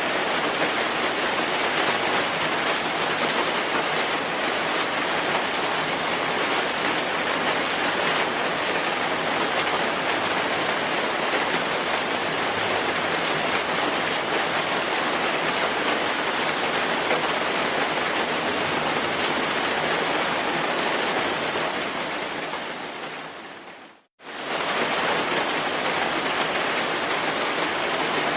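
Steady, dense rainfall. About 24 seconds in it fades away over a couple of seconds to a brief silence, then comes straight back at full strength.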